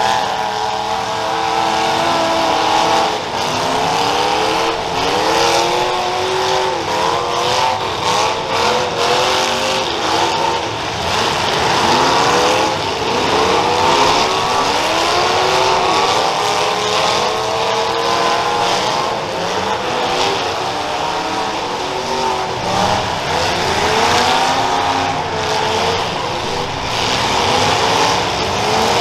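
Several demolition derby cars' engines revving at the same time, their pitch repeatedly rising and falling as they push and ram one another. Short bangs of collisions sound here and there, the most around the middle.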